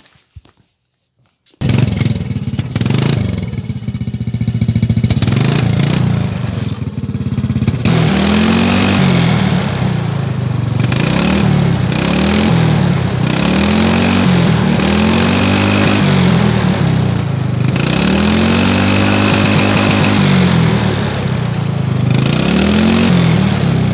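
Ski-Doo snowmobile engine running, coming in abruptly about two seconds in, then revved up and let back down over and over. The owner likens its sound to a Honda Civic.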